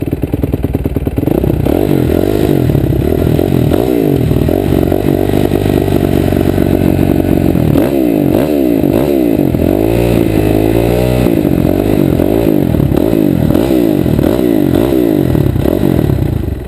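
Motocross dirt bike engine running, revved up and down over and over so that its pitch keeps rising and falling.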